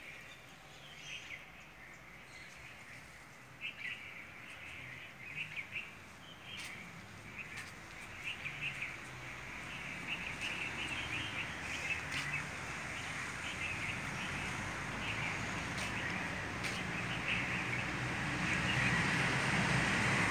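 Small birds chirping in short, repeated calls over steady outdoor background noise, which grows louder toward the end.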